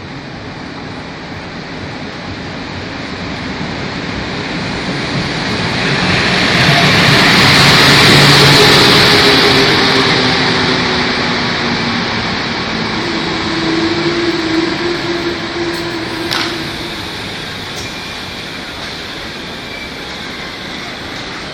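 EP09 electric locomotive hauling an express passenger train passing by: the rumble of the wheels on the rails builds to its loudest about eight seconds in, then fades as the coaches roll past, with faint steady motor tones that drop in pitch as it goes by.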